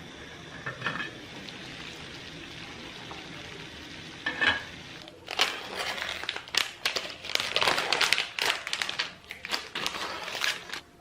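Household cleaning sounds: a steady hiss, then from about five seconds in a dense run of clattering and scraping.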